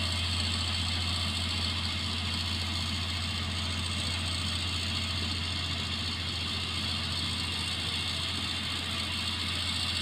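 An engine running steadily at idle with a constant low hum, without revving.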